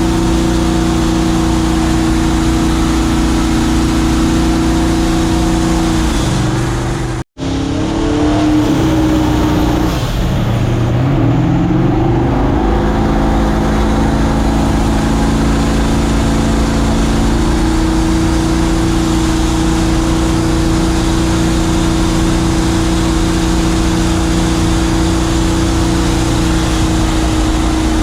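Mini jet boat's boosted engine running hard at steady high revs, under a rush of wind and water. About six seconds in the revs fall away and the sound cuts out for an instant, then the revs climb back and hold steady again from about seventeen seconds on.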